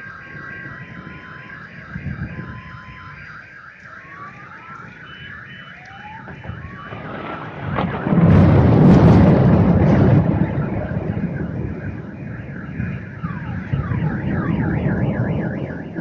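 Several car alarms sounding in cycling patterns of steady tones, chirps and rising sweeps. About eight seconds in, a loud clap of thunder breaks and rumbles for about three seconds, with a weaker rumble again near the end.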